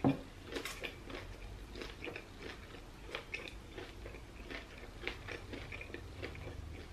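A person chewing crispy fried chicken wings: a run of small, irregular crunches and mouth clicks.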